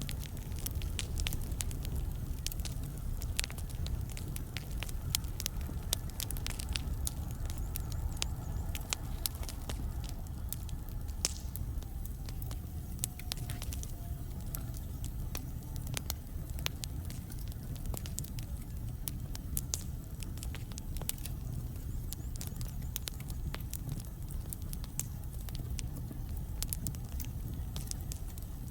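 Wood fire burning in a fireplace: a steady low rumble of flames with irregular sharp crackles and pops from the logs. Around the middle, a faint whistle slowly falls in pitch.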